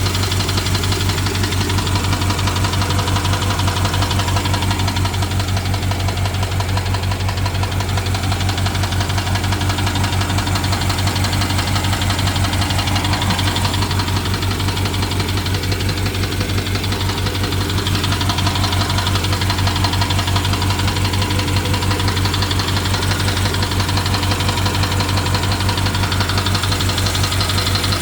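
BMW N63 4.4-litre twin-turbo V8 idling steadily with a fast, continuous ticking. It is running with a misfire, and the ticking appeared after the fuel injectors and high-pressure fuel pump were replaced; the owner wonders whether it is the timing chain.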